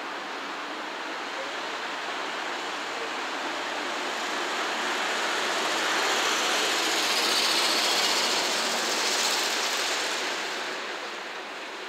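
Steady rushing noise of rail traffic at a freight yard, swelling about halfway through and easing near the end.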